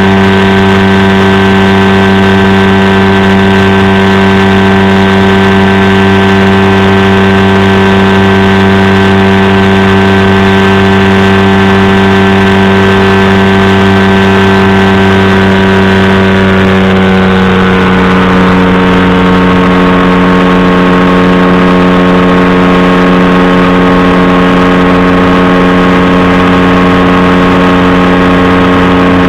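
Powered parachute's engine and propeller running steadily and loudly in flight. About two-thirds of the way through, the upper tones shift a little in pitch.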